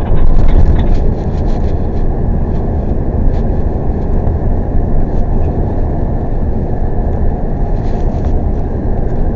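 Tow truck engine running with a steady low rumble of road noise while driving, with a few light clicks or rattles in the first couple of seconds.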